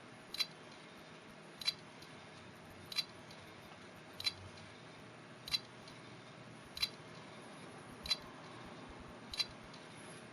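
Failing 2.5-inch Seagate ST9500325 laptop hard drive clicking with its abnormal noise: a sharp click about every 1.3 seconds, eight times, over a faint steady whir of the spinning platters.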